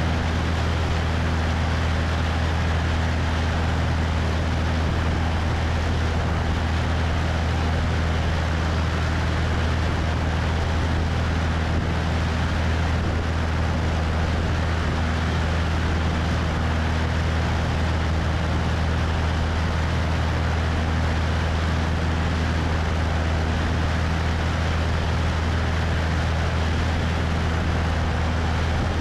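Cessna 172's piston engine and propeller droning steadily at a constant setting, with wind rushing over the wing-mounted microphone.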